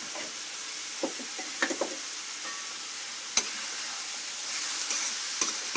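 Chopped tomatoes and tomato paste sizzling steadily in a hot wok on a gas burner while being stirred, the spoon knocking against the wok a few times, most sharply about three and a half seconds in.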